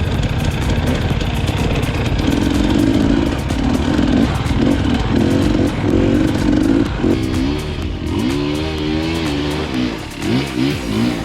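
KTM EXC 250 two-stroke enduro motorcycle engine running under steady throttle, then from about seven seconds in its revs rising and falling over and over as the throttle is worked on and off.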